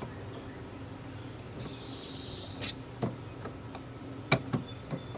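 A handful of short, sharp clicks and taps in the second half, over a steady low hum, with a faint high whistle-like tone about two seconds in.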